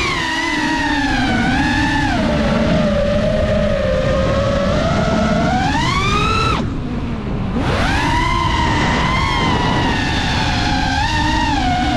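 Five-inch FPV quadcopter's brushless motors (2405, 2850KV) and three-blade Gemfan props whining, the pitch rising and falling with throttle. A little past halfway the throttle is cut: the whine drops away for about a second, then climbs back up as power is punched again.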